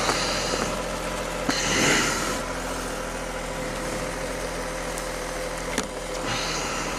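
MV Agusta 675 three-cylinder engine idling steadily, with a brief rush of noise about two seconds in and a few light clicks.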